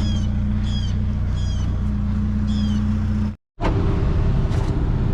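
Motor vehicle engine running steadily, with a run of short, high, falling chirps about every two-thirds of a second over it. The sound cuts out abruptly for a moment about three and a half seconds in, then the engine noise resumes, rougher.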